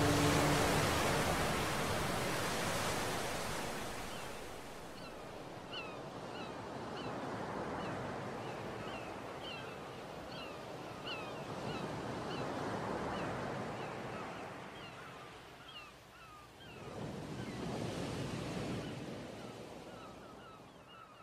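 Sea waves washing in, the surf swelling and falling away about every five seconds, with small birds chirping repeatedly from about five seconds in.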